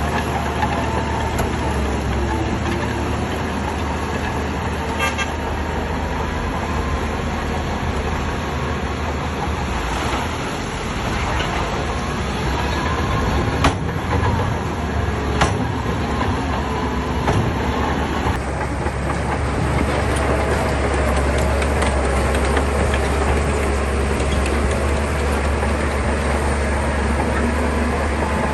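Shantui bulldozer's diesel engine running steadily under load, with a strong low drone and two sharp metallic knocks partway through.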